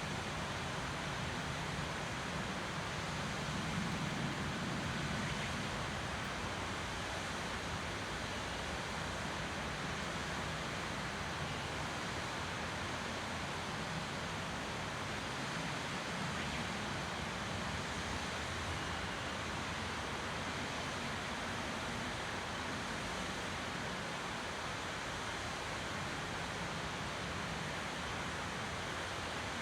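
Waterfall running steadily: an even, unbroken rush of falling water, slightly fuller in the low end for the first few seconds.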